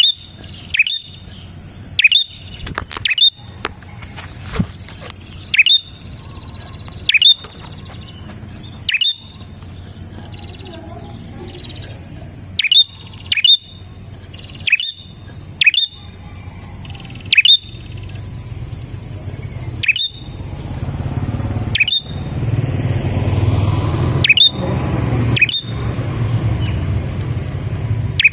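Prinia (prenjak) calling: loud, brief notes that each sweep down in pitch, repeated about once every one to two seconds, with a quicker burst of notes about three seconds in. Under them runs a steady high background tone, and a low rumble rises in the last third.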